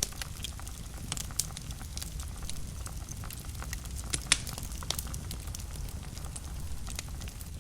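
Wood fire burning in a fireplace: a steady low rumble of flames with scattered crackles and pops, one sharper snap about four seconds in.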